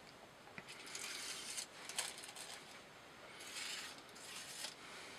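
Faint scraping and light handling sounds, with a soft click about half a second in.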